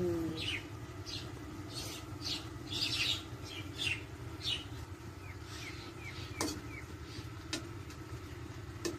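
A small bird chirps over and over, short falling chirps about two a second, over a steady low hum. Near the end a metal spatula clicks against the wok a few times as the eggs are stirred.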